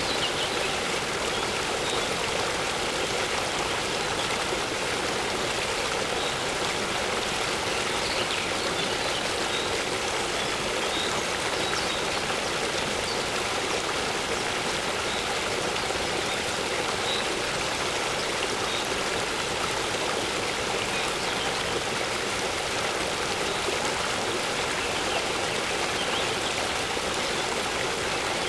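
Waterfall running steadily into a lake, a continuous even rush of falling water, with faint short bird chirps here and there.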